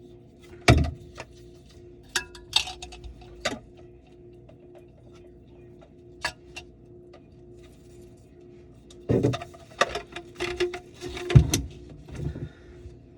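Scattered knocks and clinks of tools and pipe parts being handled during under-sink plumbing work. They come in a few clusters: about a second in, around two to three and a half seconds in, and a denser run from about nine to twelve seconds in. A steady hum sits under them.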